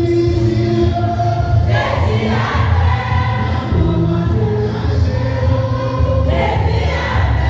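Choir singing a church hymn in long held notes over a loud, steady low bass accompaniment.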